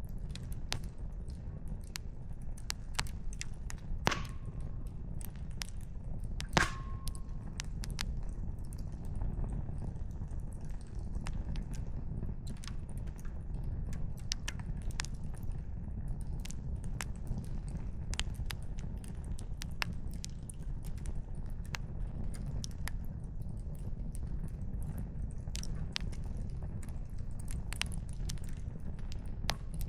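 Wood fire crackling, with frequent small pops and snaps, two louder pops about 4 and 6.5 seconds in, over a steady low rumble.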